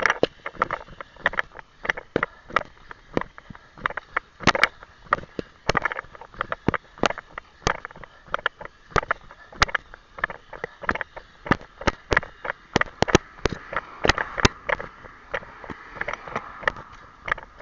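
Footfalls of a person running: a steady stream of sharp knocks, about two to three a second.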